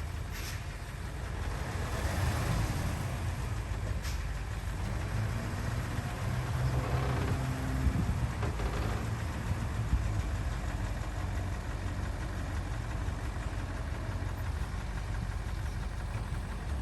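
Diesel engine of heavy earthmoving machinery running steadily, with a couple of short knocks.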